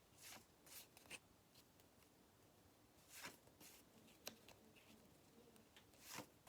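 Near silence: room tone with a few faint, brief rustles and taps scattered through it.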